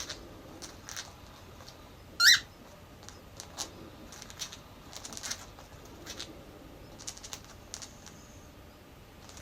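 A cockatiel gives one short, loud chirp about two seconds in, among soft scattered clicks and scratches.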